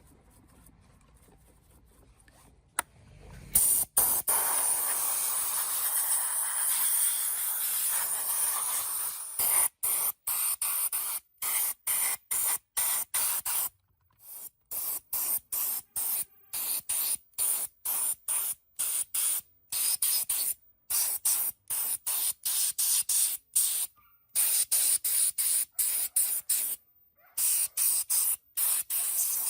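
Spray nozzle hissing, held steadily for about six seconds, then let off in many short bursts, about one and a half a second.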